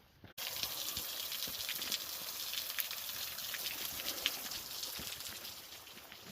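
Falling water from a small waterfall, a steady splashing rush full of fine droplet ticks. It starts abruptly just after the start and eases slightly near the end.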